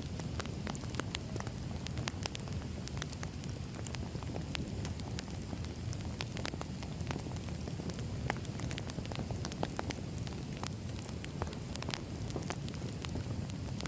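Wood fire crackling: frequent sharp pops and snaps over a steady low rush of burning logs.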